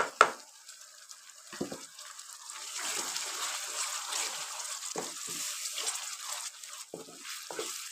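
Tomato paste frying in hot ghee in a wok while a wooden spatula stirs it. A steady sizzling hiss builds up about two seconds in, with occasional scrapes and knocks of the spatula against the pan.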